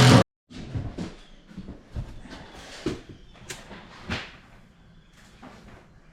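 A loud sound cuts off abruptly right at the start, followed by a string of irregular knocks and clunks, about half a dozen over four seconds, as of boards and tools being handled and set down during floor repair work.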